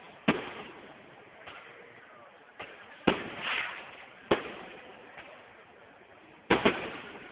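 Aerial fireworks shells bursting, a string of sharp bangs every second or two, each trailing off in an echo. Two bangs come in quick succession near the end.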